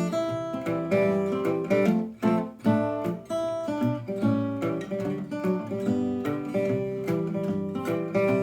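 Waterloo WL-S Deluxe acoustic guitar played fingerstyle: an instrumental break in an old-time country tune, picked bass notes under a plucked melody in a steady rhythm.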